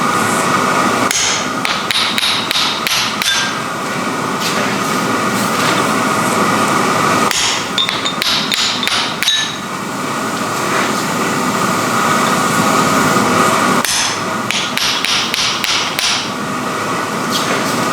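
Hammer blows on hot iron at the anvil during forging, in three bursts of several quick ringing strikes, over a steady background hum.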